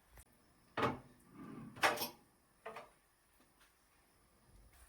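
Three sharp knocks and clatters about a second apart, as kitchen things are handled and set down.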